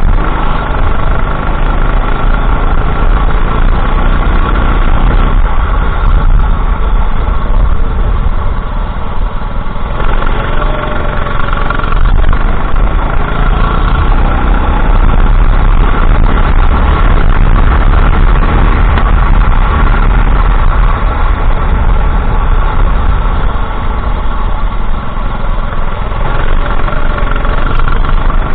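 Racing kart engine heard on board, running hard with the revs rising and falling repeatedly. Loud, over a heavy low rumble.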